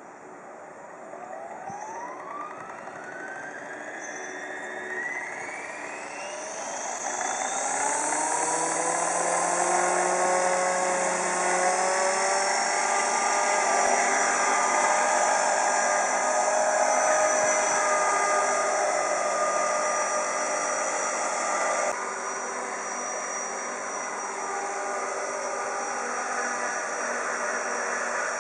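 Mini helicopter's small motor and rotor spinning up, a whine rising in pitch over several seconds, then holding a steady high whine. About two-thirds of the way through it drops suddenly to a slightly quieter, steady level.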